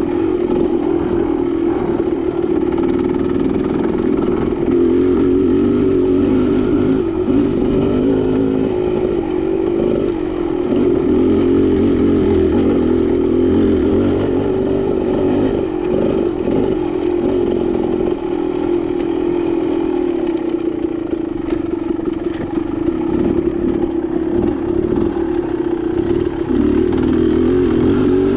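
Dirt bike engine running continuously while ridden on a single-track trail, its pitch rising and falling with the throttle.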